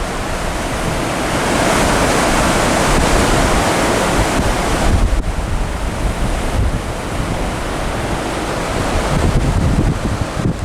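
Strong gusting wind rushing over the microphone, a gust building about a second and a half in and easing around five seconds in.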